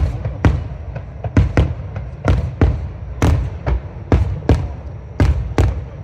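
Aerial fireworks shells bursting in quick succession, about two sharp bangs a second, each followed by a brief low rumble. The bangs stop shortly before the end.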